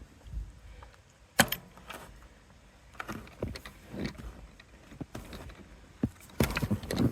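A gate being worked open: a sharp metallic click about a second and a half in, then scattered knocks and rustling, busier near the end.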